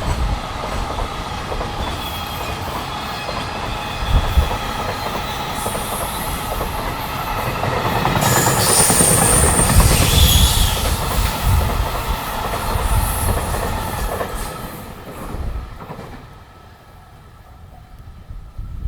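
Freight train running past on the line, its rumble building to a peak about halfway through, with a high wheel squeal at the loudest point. It then fades away quickly about three-quarters of the way through.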